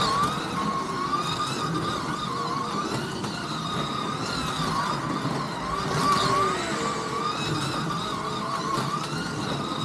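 Scalextric slot cars' small electric motors whining round the track, the pitch rising and falling as the cars speed up and slow down.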